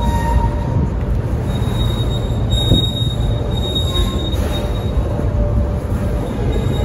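Freight train of flatcars carrying garbage containers rolling past: a steady, heavy rumble of wheels on rail, with thin high wheel squeal coming and going.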